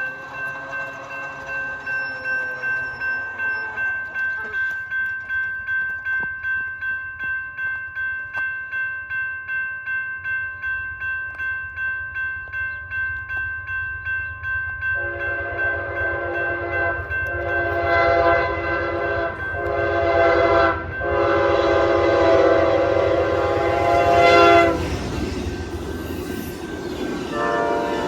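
A grade-crossing bell rings about twice a second. About fifteen seconds in, the horn of an Amtrak GE P42DC 'Genesis' locomotive sounds the crossing signal, two long blasts, a short one and a long one, and then the train goes by with a loud rush of wheel noise.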